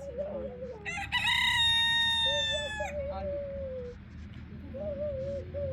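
A rooster crowing once, starting about a second in: a brief rising start, then a long held note that sags slightly and cuts off after about two seconds.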